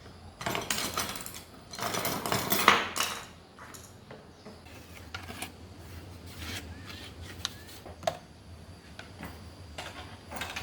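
Small metal parts clinking and rattling as they are handled: two bursts of clatter in the first three seconds, then scattered light clicks and knocks.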